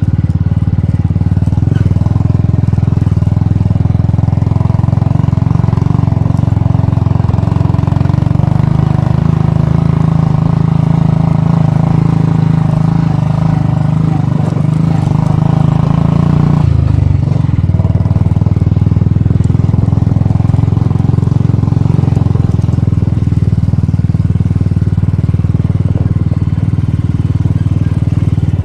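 Royal Enfield Bullet's single-cylinder engine running steadily under way, loud throughout. A little over halfway through its pitch drops suddenly, then it settles into steady running again.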